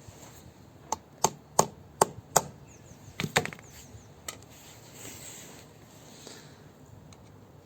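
Sharp taps on the fan hub of a car blower motor, about five single knocks spaced a third of a second apart, then a quick cluster of three or four and one last knock, as the fan is knocked along the motor shaft into position.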